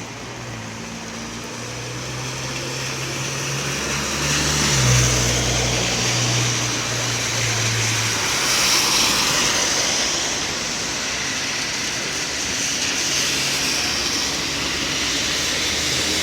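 A motor vehicle's engine running close by with a steady low hum, growing louder over the first few seconds and then holding, over a wash of street and rain noise.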